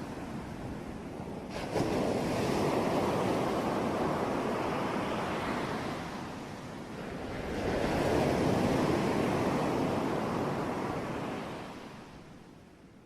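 Sea waves breaking and washing in, two surges, the first starting suddenly about two seconds in and the second around eight seconds, then fading away near the end.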